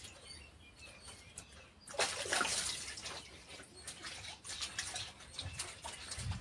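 Faint bird chirps in the background, with a brief noisy swish about two seconds in.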